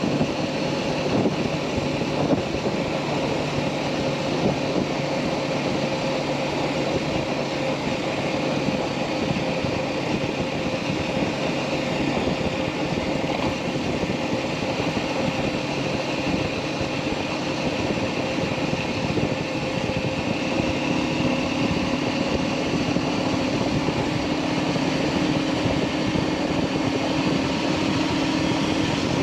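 Motorcycle engine running steadily at cruising speed with wind and road noise. A second, lower hum joins about two-thirds of the way through.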